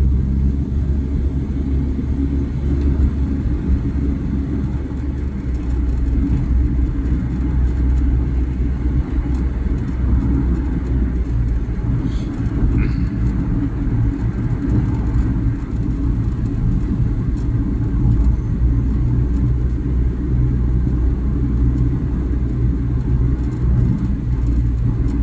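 Steady low rumble of a car driving: engine hum and tyre noise on the road.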